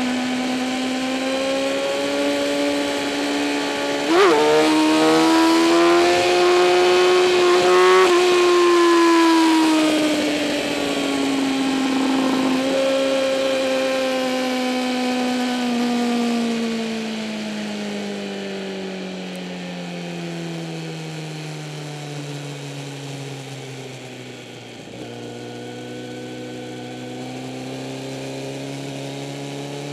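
2008 Kawasaki ZX-10R's inline-four engine, heard from on the bike, pulling up through the gears with two shifts about four and eight seconds in. The engine speed then falls slowly and steadily for some fifteen seconds and settles at a low, even pitch near the end.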